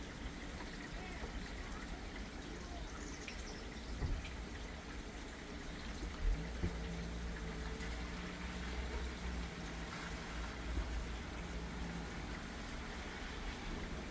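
Light rain falling and water trickling and dripping, over a steady low rumble, with a couple of soft taps about four and six and a half seconds in.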